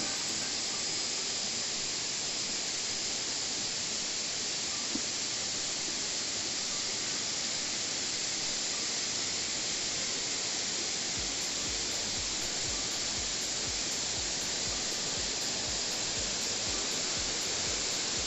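Waterfall: a steady, even rush of falling water. Low irregular thuds join in from about eleven seconds in.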